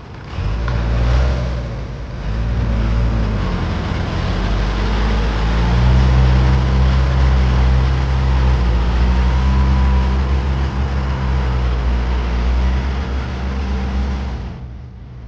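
Tractor engine running under throttle. Its note dips and rises about two to five seconds in, holds steady, then falls away near the end.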